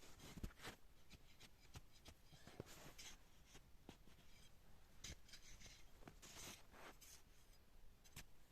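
Near silence with faint scraping or rustling and a few light clicks.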